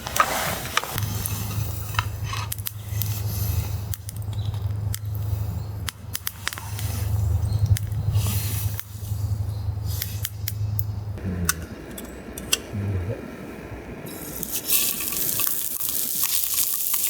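Liquid dripping and splashing while camp cookware is handled, with light clicks and knocks. A steady low hum runs through the first two-thirds, and a hiss of poured or running liquid starts near the end.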